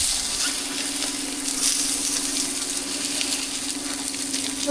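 Food sizzling on a hot street-stall griddle as flatbread cakes cook, a steady hiss, with a steady low mechanical hum underneath.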